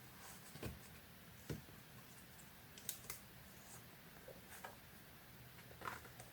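Faint, scattered taps and clicks of paper and craft tools being handled during collage-making: about six short knocks over a low steady room hum.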